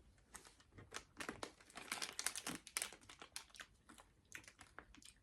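Plastic Skittles bag crinkling faintly in the hands, a run of small crackles that is busiest in the middle.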